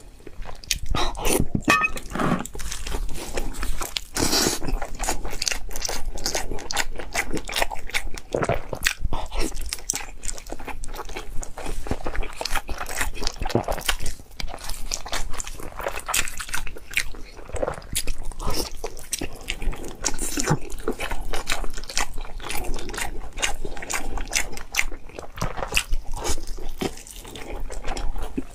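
Close-miked biting and chewing of braised pork intestine, a dense run of small clicks and mouth noises with no pauses.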